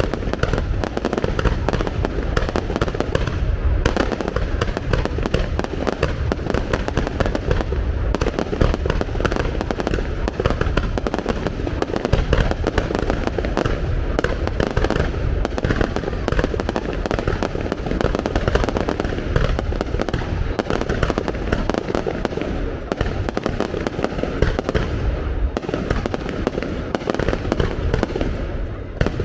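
Fireworks display in full barrage: shell bursts and bangs follow one another so closely that they merge into a continuous crackling rumble with no pause.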